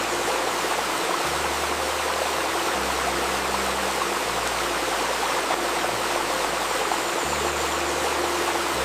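Steady rushing and babbling of a river stream. Beneath it, soft low held tones change pitch every one to three seconds.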